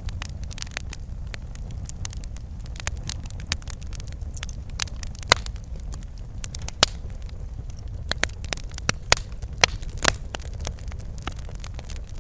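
Wood fire crackling: a steady low rumble of burning with irregular sharp snaps and pops, a few louder ones scattered through.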